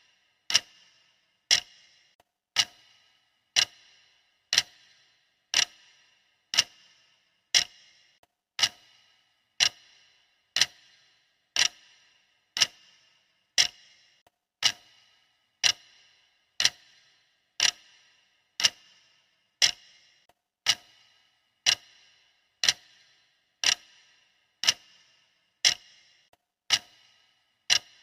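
Clock ticking steadily, one sharp tick each second, each tick with a brief ringing tail.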